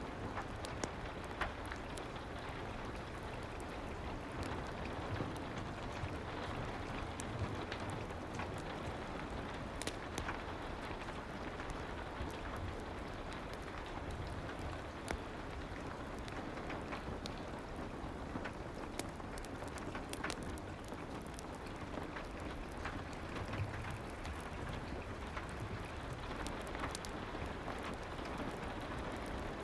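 Soft, steady rain ambience mixed with a fireplace: an even hiss with scattered sharp crackles and pops.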